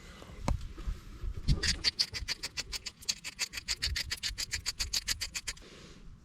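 A couple of knocks, then a fast, even run of scraping strokes, about seven a second, for about four seconds before stopping abruptly.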